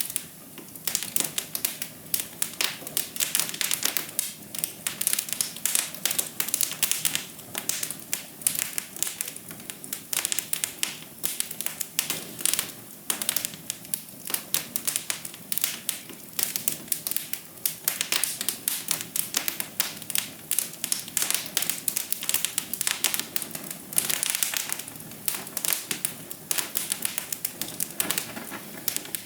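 Wood fire crackling in a fireplace: dense, irregular clicks and pops over a soft hiss.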